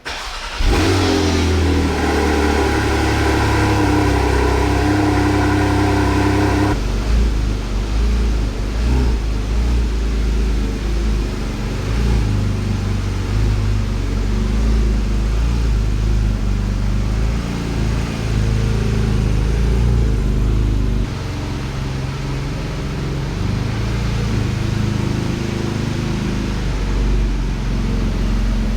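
A sports car's engine starts with a sudden burst about half a second in and holds a steady fast idle for about six seconds, as on a cold start, then settles into a lower, rougher rumble with small rises and falls for the rest of the time.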